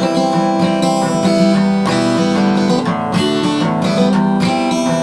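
Acoustic guitar strumming chords in a steady rhythm during an instrumental passage between sung lines of the song.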